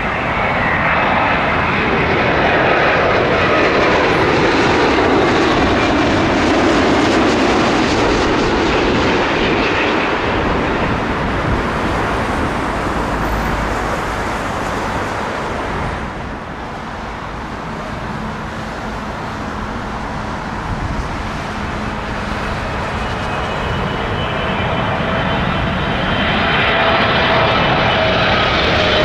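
Jet airliner passing low overhead on approach to land: a loud rush of engine noise with whining tones that drop in pitch as it goes over, then fades. Near the end the engine whine of the next arriving jet builds up.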